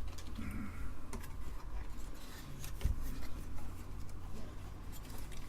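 Faint scraping and a few small clicks of a desoldering tool working a capacitor's solder joint on a circuit board, over a steady low hum.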